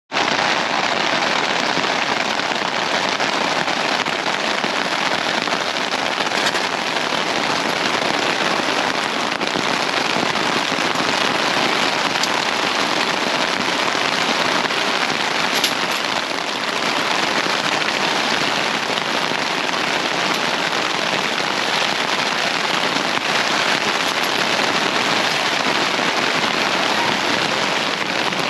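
Steady, loud rain falling, an even hiss with the odd sharper drop, starting suddenly.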